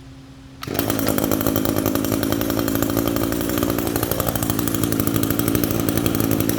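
Echo GT225 string trimmer's two-stroke engine starting about a second in and then running steadily. It catches readily while warm after a tune-up with a new air filter and spark plug.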